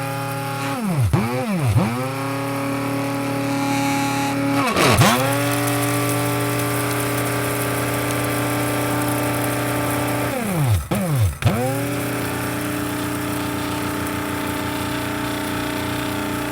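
Electric coffee grinder motor running with a steady, pitched hum. About five times (twice near the start, once about five seconds in, twice around eleven seconds) its pitch drops sharply and swings straight back up.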